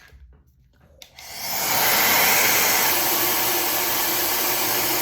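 Tymo Air Hype hair dryer switched on with a click about a second in, its airflow building over about a second, then blowing steadily.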